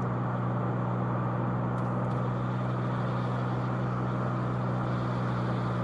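Car engine hum with tyre and road noise, heard from inside the cabin while cruising at a steady speed.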